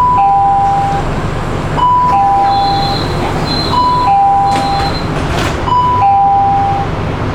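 Metro train door warning chime: a two-note high-low electronic chime sounding four times, about every two seconds, over the steady hum of the stationary train.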